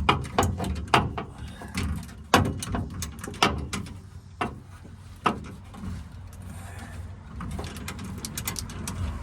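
Irregular sharp metal clicks and knocks of a ratchet wrench and hand tools working a seized, rusted bolt, sparser in the middle stretch, over a low steady rumble.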